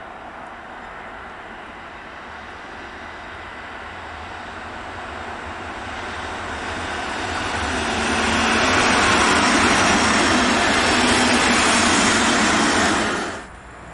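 A Berlin S-Bahn electric train approaching and passing close: a rush of wheels on rails that grows steadily and is loudest from about eight seconds in, then cuts off abruptly near the end.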